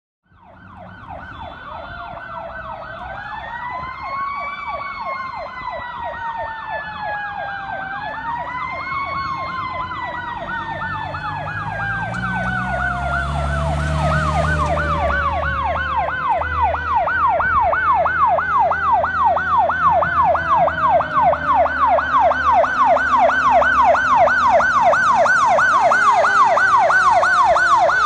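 A fire engine's sirens, getting louder as it approaches: an electronic siren yelps rapidly up and down while a mechanical siren winds up twice and then winds slowly down. A low engine rumble swells about halfway through.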